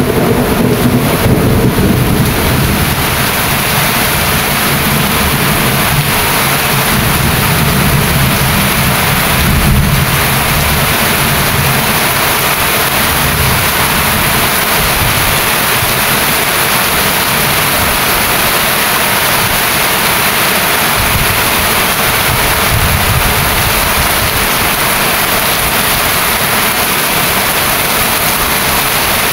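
Heavy rain falling steadily, an even hiss with no break. A low rumble of thunder fades away over the first couple of seconds.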